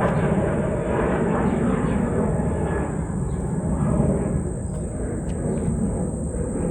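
Steady low rumble of an aircraft passing overhead.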